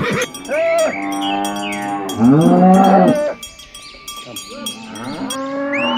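Cows mooing: several pitched calls that rise and fall, the loudest a long low moo about two seconds in.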